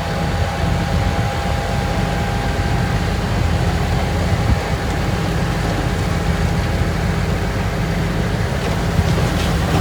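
Diesel engine of heavy earthmoving machinery running steadily, a continuous low rumble.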